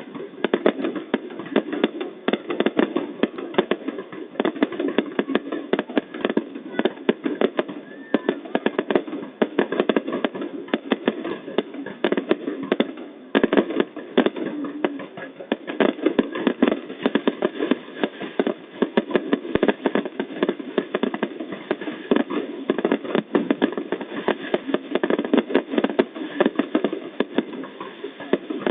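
Fireworks going off in a dense, unbroken run of bangs and crackles with no pause.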